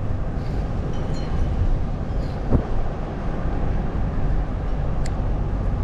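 Steady road and engine rumble of a car being driven, heard from inside the cabin, with a brief knock about two and a half seconds in.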